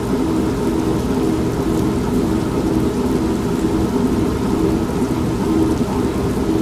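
An old manual washing machine running, its low hum pulsing about twice a second, mixed with steady rain and a low rumble of thunder.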